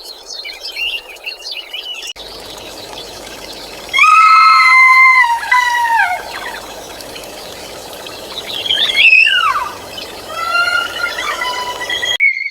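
Briefly birds chirping, then a cut to an animal giving loud, high squealing calls: a held call that drops in pitch at its end, a quick call that sweeps up then down, and a shorter third call. Birdsong returns near the end.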